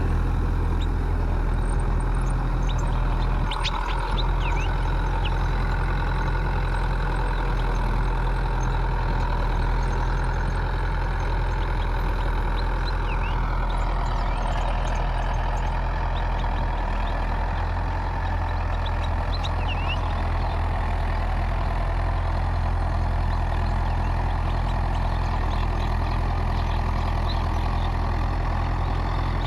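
Mahindra 585 4WD tractor's diesel engine running steadily while driving a 6-foot, 42-blade Mahindra rotavator, with an even drone and no breaks.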